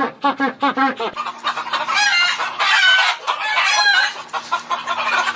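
Chickens calling: quick clucks, about seven a second, then from about a second in several louder, higher calls that rise and fall and overlap, over a low steady hum.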